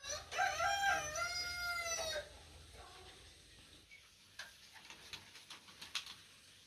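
A rooster crowing once, a call of about two seconds, followed by scattered faint clicks and taps.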